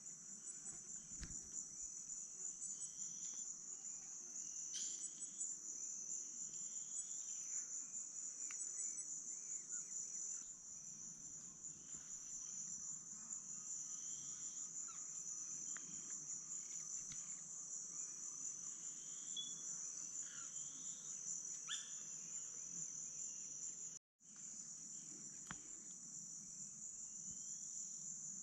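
Amazon rainforest insects keeping up a steady, high, finely pulsed trill, with scattered short bird calls underneath. The sound cuts out abruptly for a moment near the end, then resumes.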